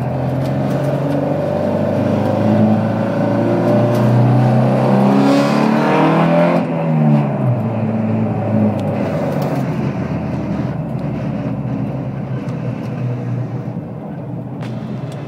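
Sunbeam rally car's engine heard from inside the cabin, pulling hard under throttle for about six seconds, then lifting off sharply with the revs falling away, and running on more gently at lower revs.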